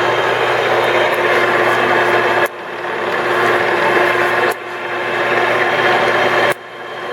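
ENCO 13" x 40" metal lathe running under power with a steady hum and whine. Three times, about two seconds apart, there is a click and the sound drops suddenly, then builds back up.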